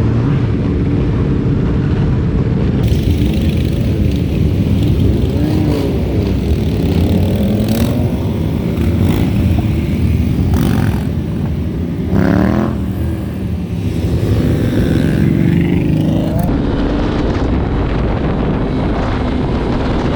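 Yamaha R3's parallel-twin engine with a full aftermarket exhaust, heard from on board while riding, its pitch rising and falling with throttle and gear changes. The engine eases off briefly a little past the middle, then picks up again.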